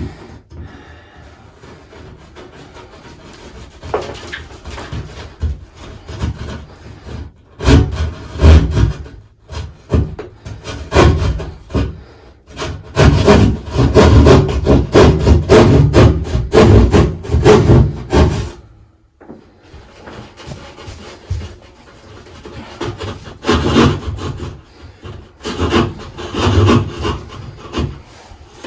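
Hand saw cutting an access hole through a bathroom wall, in spells of quick rasping back-and-forth strokes with short pauses between them.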